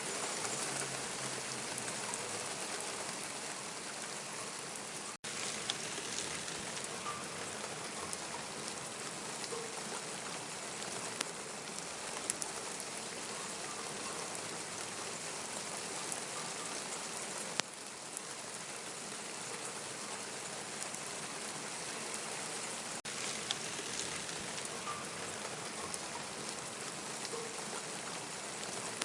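Steady rain falling, with scattered sharp drops striking close by. There is a brief dropout about five seconds in.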